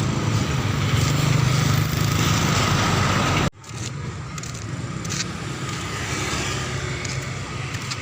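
Outdoor street ambience: a dense noisy background with a steady low rumble. About three and a half seconds in it cuts off abruptly, then resumes quieter.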